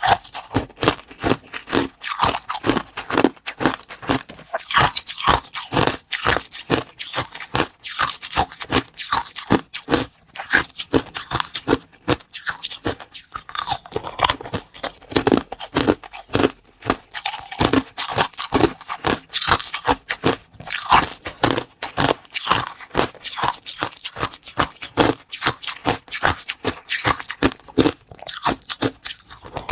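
Close-miked eating: an unbroken run of crisp crunches and bites, several a second, as something hard is bitten and chewed.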